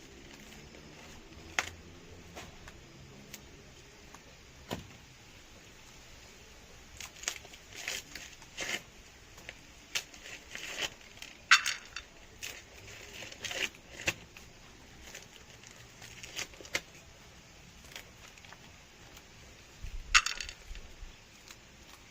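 Dry maize leaves and husks rustling, with scattered sharp snaps as corn ears are picked by hand. The two loudest snaps come about halfway through and near the end.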